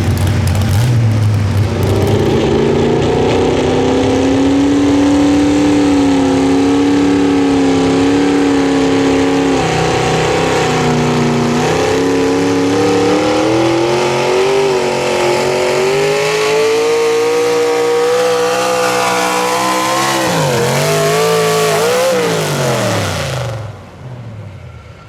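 Pro Stock mini truck engine at full throttle through a pull, its pitch held high and slowly climbing, with a brief dip partway. Near the end it drops and blips twice as the driver comes off the throttle, then the engine noise falls away.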